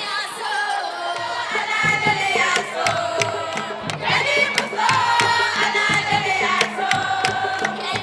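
A group of voices singing and chanting together over sharp percussive hits, with crowd noise.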